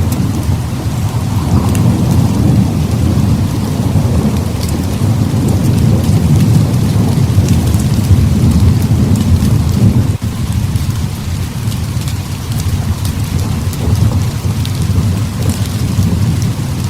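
Heavy rain falling steadily under a continuous low rumble of rolling thunder, with scattered sharp ticks of drops in the hiss.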